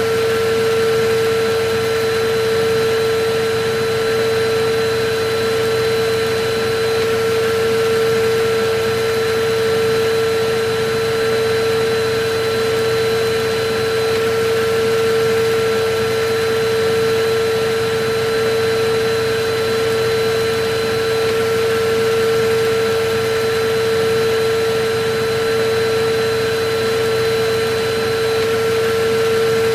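Electric vacuum cleaner running steadily: a constant motor whine over an even rush of air, with only a slight slow rise and fall in loudness.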